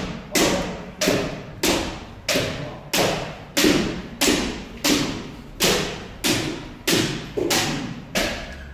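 A steady series of sharp thuds from kendo practice, about three every two seconds, each with a short echo.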